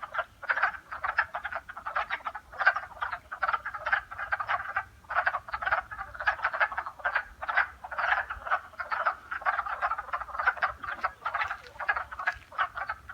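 A chorus of many frogs calling over one another, with short calls repeating densely and without pause.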